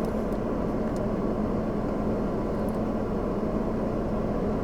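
Steady low rumble of a vehicle on the move, with a constant hum and no breaks.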